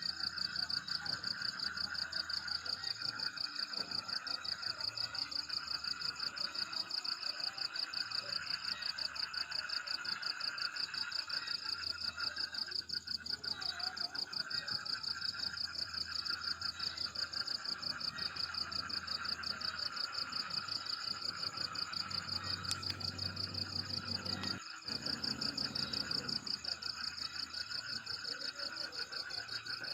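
Night chorus of chirping insects and calling frogs: a high, rapidly pulsing trill over a steadier lower trill, unbroken except for a brief dropout about 25 seconds in.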